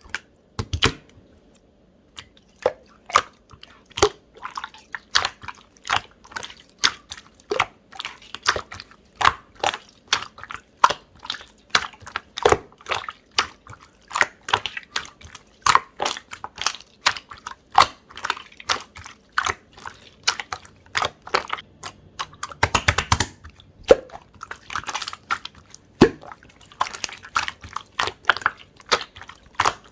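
Slime being squeezed and pressed by hand, giving sharp wet clicks and pops about two or three a second, with denser crackling runs near the end.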